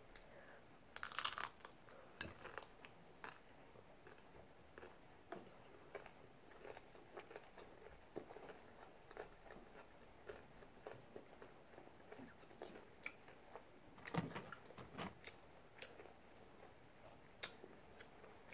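Hard taco shell crunching as it is bitten and chewed, with the loudest crunches about a second in and around fourteen seconds in, and small crackles of chewing between.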